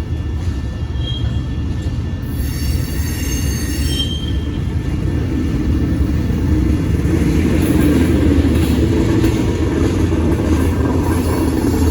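Freight train rolling past, a steady low rumble of the cars that grows louder, with a brief high-pitched squeal of wheels about two to four seconds in.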